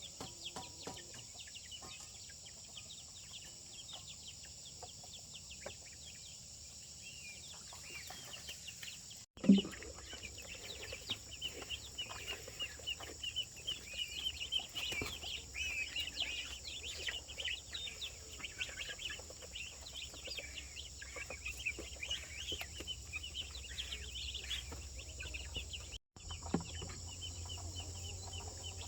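A flock of chickens clucking and calling, many short high calls overlapping. The calls thicken after a sudden loud thump about nine seconds in. A steady high hiss runs underneath.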